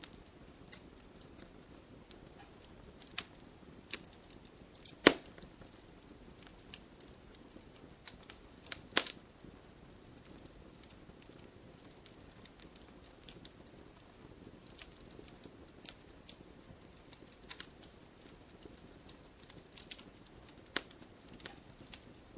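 Campfire crackling: irregular sharp pops and snaps from burning wood over a soft low hiss. Two louder pops stand out, about 5 and 9 seconds in.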